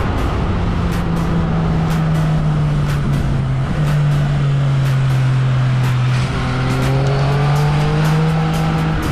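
Yamaha XSR900's inline three-cylinder engine running under way, heard onboard. Its pitch sags slightly, drops about four seconds in, then climbs steadily through the last third as the bike accelerates.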